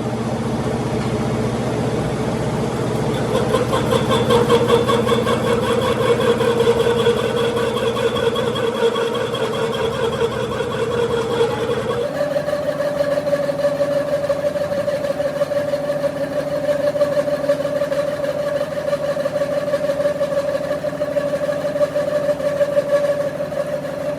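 A machine's motor or engine running steadily, with an even hum. About halfway through the sound jumps abruptly to a slightly higher steady pitch.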